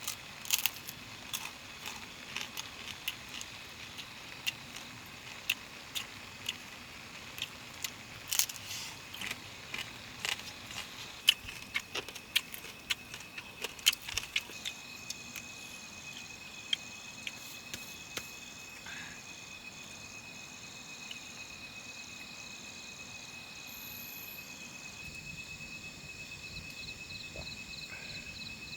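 Irregular sharp clicks and snaps for about the first half. From about halfway, a steady high insect trill sets in, with a faster pulsing chirp joining near the end.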